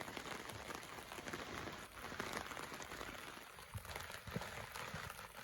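Steady rushing hiss of the Smith River flowing, with a few faint ticks.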